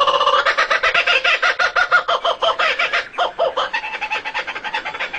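Bird calls: a fast run of short repeated notes, about ten a second, which falters briefly about three seconds in and then carries on less strongly.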